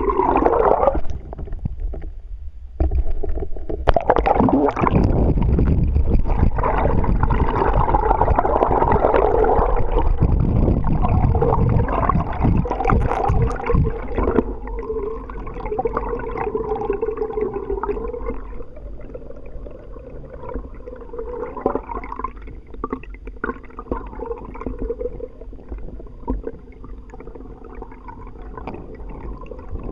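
Water gurgling and rushing around an underwater camera on a moving kayak. It dips briefly near the start, runs louder for about ten seconds, then settles quieter from about halfway through.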